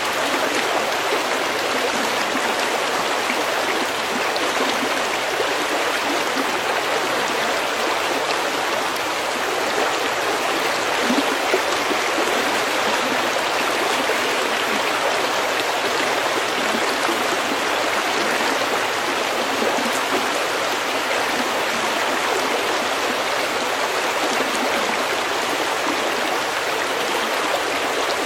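Steady babbling of a stream flowing over pebbles, an even rush of water.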